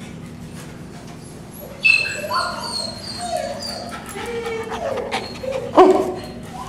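A small toy wire-haired terrier whimpering and yipping: a string of short, high whines starting about two seconds in, with a louder cry near the end, over a low steady hum.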